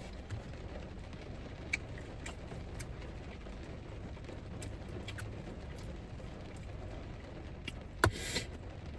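Sounds of eating sushi: scattered light clicks and taps, then a sharp click about eight seconds in with a short rustle, over a steady low hum.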